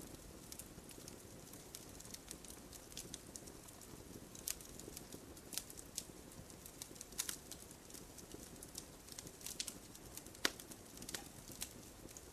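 Wood fire crackling in a fireplace: irregular small pops and crackles over a soft low hiss of burning, with a few sharper snaps now and then.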